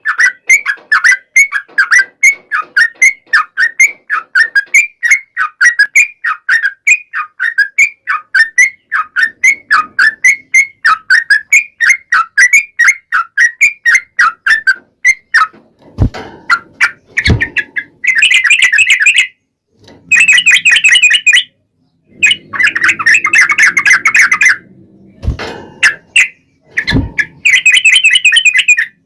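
Yellow-vented bulbul (trucukan) calling in a long chattering run of short, quick chirps, about three or four a second. About halfway through it breaks into fuller bursts of song a second or two long. Four sharp knocks sound in the second half.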